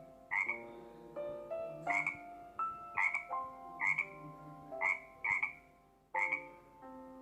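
Frog croaking: a series of short, repeated croaks, about one a second, some coming in quick pairs.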